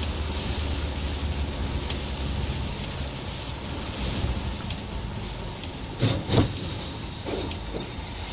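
Vehicle and road noise as picked up by a dashcam: a steady low hum under a constant hiss, with two short, louder sounds close together about six seconds in.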